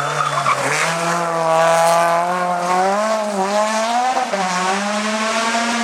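Rally car engine running hard at high revs, its pitch climbing slowly with brief dips about three and four seconds in.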